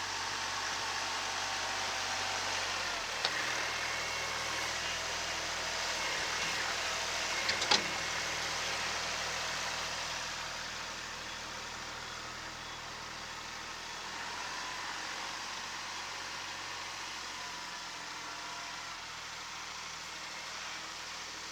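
Kubota SL28H tractor's diesel engine running steadily under front-loader snow-clearing work, with two sharp clicks, about 3 and 8 seconds in.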